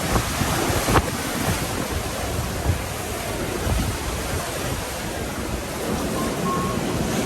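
Ocean surf washing in with strong wind buffeting the microphone: a steady rushing noise with a heavy low rumble.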